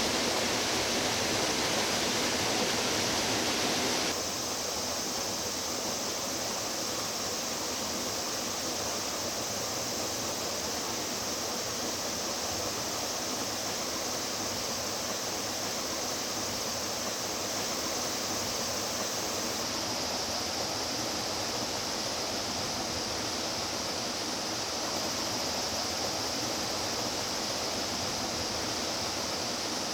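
Rushing water of a mountain stream, a steady even rush. It changes abruptly about four seconds in, becoming a little quieter, and shifts in tone again near twenty seconds.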